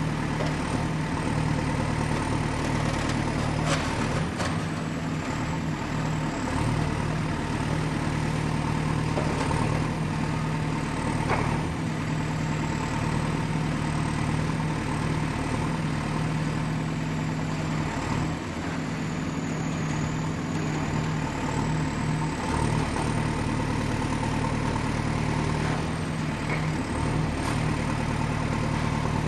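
Excavator's diesel engine running steadily with a deep drone, over a thin high whine that wavers slightly in pitch. A few short knocks come through, a few seconds in, around the middle, and near the end.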